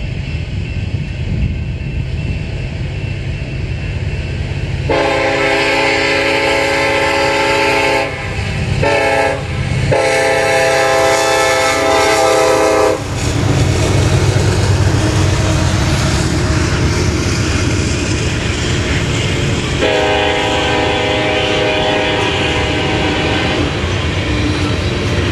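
Union Pacific freight locomotive horn sounding for a grade crossing: a long blast, a short one and another long one, about three seconds each for the long blasts. Then the diesel locomotives pass close by with a heavy low rumble, followed by covered hopper cars rolling over the rails. A fainter horn-like chord sounds again from about 20 seconds in.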